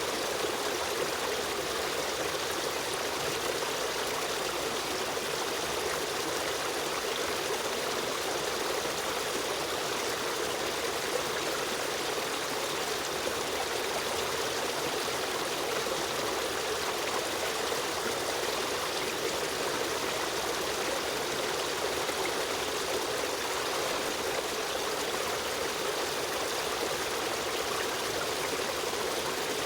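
A stream of running water flowing and trickling steadily.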